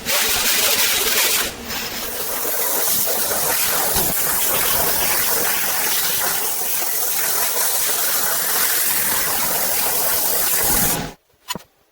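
A loud, steady hissing noise that starts abruptly, dips briefly about a second and a half in, and cuts off suddenly near the end.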